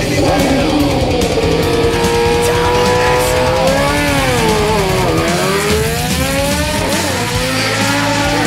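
Drag-racing sport bike engine held at high revs during a burnout, then its pitch drops about four seconds in as the bike launches and climbs again as it pulls away down the strip. Rock music plays underneath.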